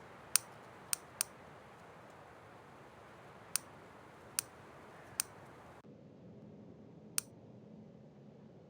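Seven sharp, separate clicks at uneven intervals over a faint steady hiss; the hiss drops away suddenly about six seconds in.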